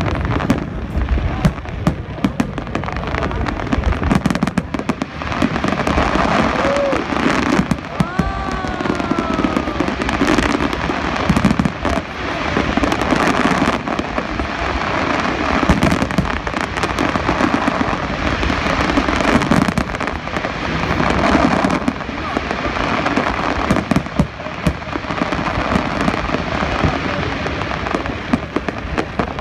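New Year fireworks going off in repeated bangs and pops over the chatter of a large crowd. About eight seconds in, a whistling tone slides down in pitch.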